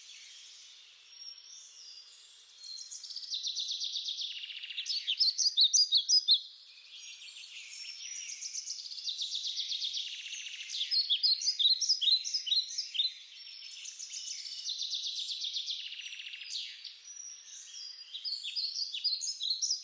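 Birds chirping and twittering in quick high runs of chirps and trills. Nothing low is heard beneath them.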